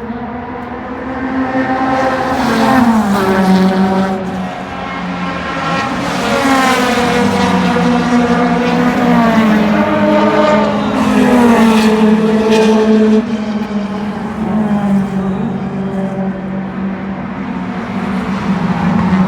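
Drag race car engines running at high revs, the pitch climbing and dropping several times as they accelerate.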